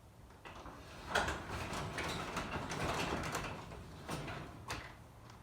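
A garage door being lifted by hand with its opener disconnected, running up its tracks for about three seconds and ending with a couple of sharp knocks.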